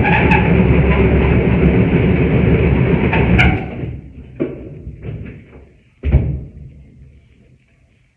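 Construction work in the building: a loud, steady rumbling that stops about four seconds in, followed by a few knocks and one heavy thud about six seconds in.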